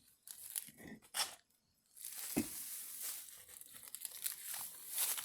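Irregular rustling and crinkling noises, with a short pause about one and a half seconds in and a dull knock soon after.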